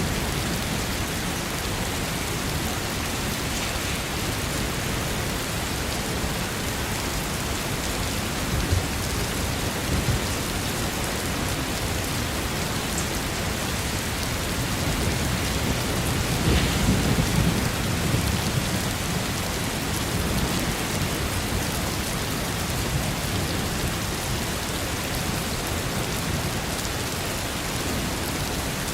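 Steady heavy rain, with a low roll of thunder swelling for a few seconds about halfway through.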